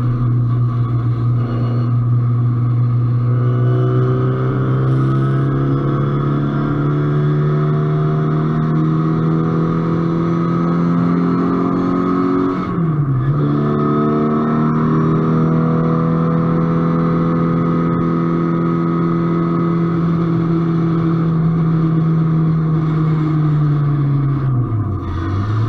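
Onboard sound of a track car's engine at sustained high load, heard from on the car. The pitch climbs steadily for about twelve seconds, dips sharply once at a gear change, then holds roughly steady. Near the end it falls away with a couple of short blips, as the car slows and changes down.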